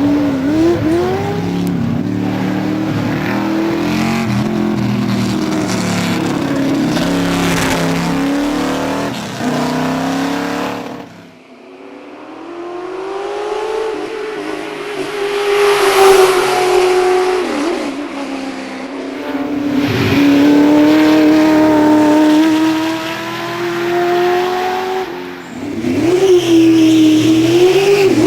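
V8 race car engines at full throttle, the pitch climbing through each gear and dropping back at every upshift. The sound breaks off sharply about eleven seconds in, then a car's engine builds up and pulls through its gears again.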